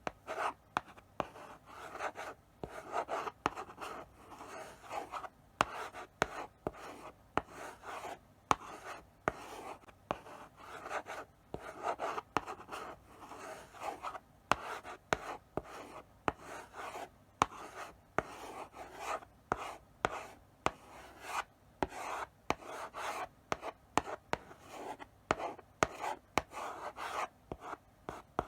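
Chalk writing slowly on a blackboard: short scratchy strokes separated by sharp taps as the chalk meets the board, with brief pauses between strokes.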